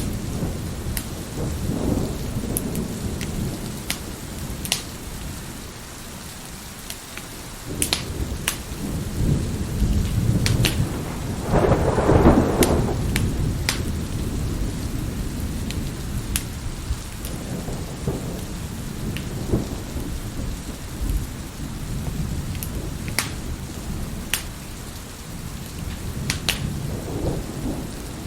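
Steady heavy rain with rolling thunder, one louder peal swelling about 12 seconds in, under the sharp scattered pops of a wood fire crackling in a fireplace.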